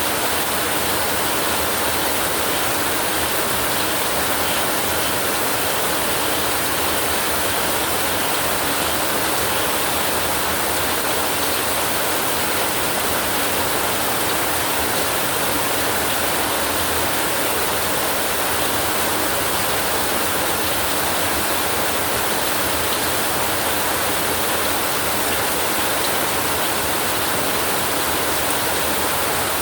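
Steady heavy rain: an even, unbroken hiss with no claps or rumbles of thunder standing out.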